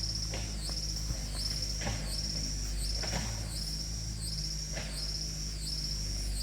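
Insect chirping in long, even, high-pitched pulses, a little more than one a second, over a steady low hum.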